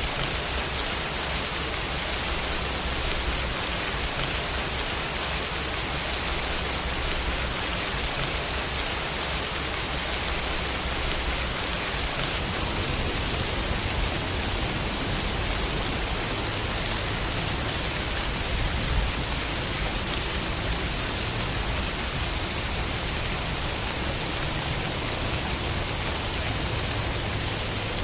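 Steady rain falling: an even, continuous hiss with no single drops standing out. A low rumble underneath grows stronger about halfway through.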